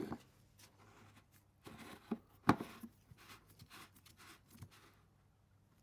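Plastic fuel-tank cap and filter of a petrol generator being handled and screwed on to test the stapled repair: scattered faint clicks and knocks, with one sharper knock about two and a half seconds in.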